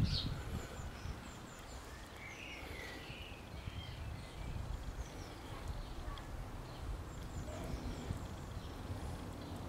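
Faint outdoor ambience: scattered songbird chirps, with a short warbling phrase about two to three seconds in, over a low steady rumble.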